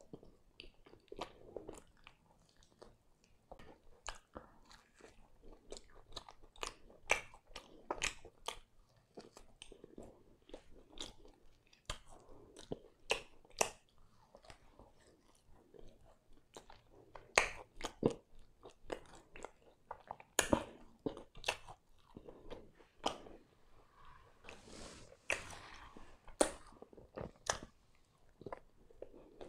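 A person biting and chewing crisp pan pizza crust: irregular sharp crunches with softer chewing between.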